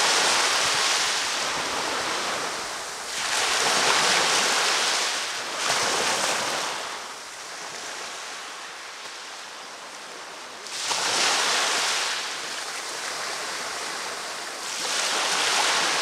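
Ocean surf breaking and washing up a beach: a steady hiss that swells with each wave, about every three to five seconds.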